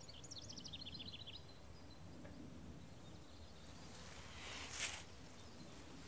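Faint outdoor ambience: a small bird chirps a quick run of short high notes in the first second and a half, over a low steady background hum. There is a brief soft rustle about five seconds in.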